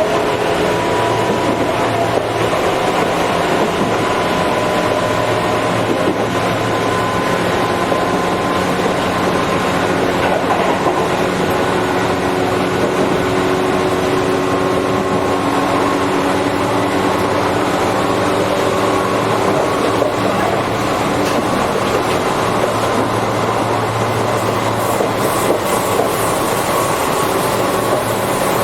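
Tobu 8000 series electric commuter train running steadily, heard from inside the passenger car: a continuous rumble of wheels on rail with a steady hum of several tones from the running gear.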